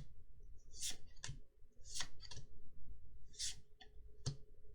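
Trading cards being flicked and slid through by hand, one after another: a series of short, crisp swishes and snaps, about seven in all, at an uneven pace.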